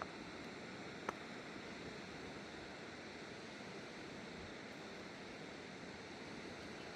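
Steady rushing of a river, an even wash of water noise. A single sharp click about a second in.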